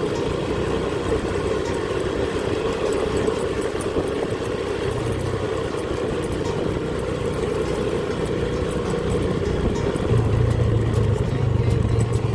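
Small motorcycle's engine running while riding, with a steady low engine note that gets louder about ten seconds in.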